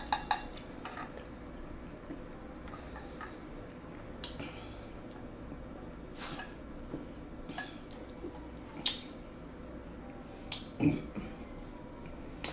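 Sparse, quiet wet clicks and smacks of eating at close range, with a soft heavier knock about eleven seconds in.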